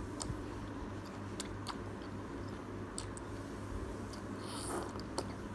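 Close-up chewing of thick udon noodles, with scattered wet mouth clicks and a brief slurp of noodles near the end.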